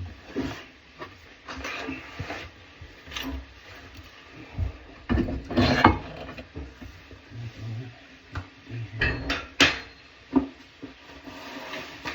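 Plumbing tools and faucet parts being handled: scattered knocks, clinks and clicks with stretches of scraping and rubbing, the loudest knocks about five to six seconds in and just before ten seconds.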